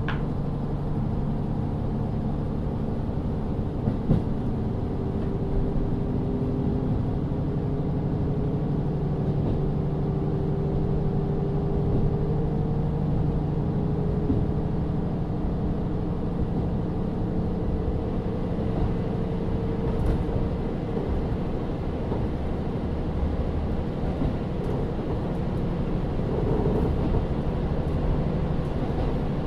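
KiHa 40 diesel railcar running under way, heard from inside the car: the steady drone of its N-DMF13HZB diesel engine over the rumble of the wheels, its pitch drifting slowly. There is one brief knock about four seconds in.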